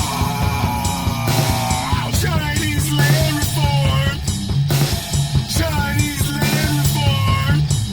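Rock song played by a full band, with a drum kit and guitar.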